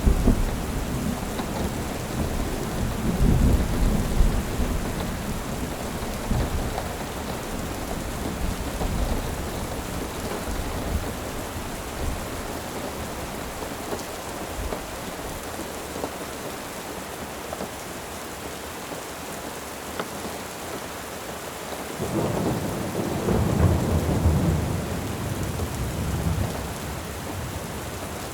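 Steady rain with rolling thunder: a low rumble dies away over the first several seconds, and another roll of thunder builds about three quarters of the way in and fades again.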